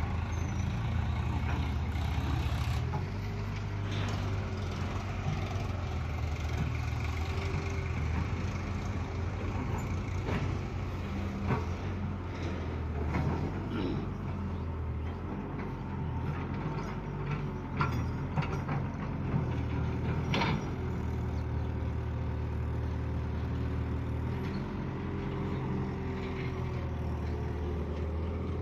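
Heavy diesel engine running steadily at low revs, with occasional sharp clanks and knocks.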